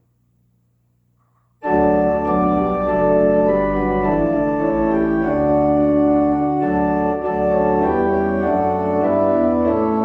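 After a short silence, an organ starts playing sustained chords about two seconds in. The chords change every second or so.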